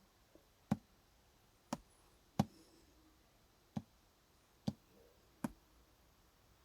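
Six sharp, single taps or knocks, irregularly spaced about a second apart, against a quiet room background.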